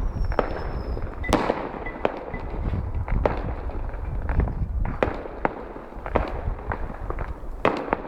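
Fireworks going off: about a dozen sharp bangs at irregular intervals over a continuous low rumble, with a faint falling whistle in the first second.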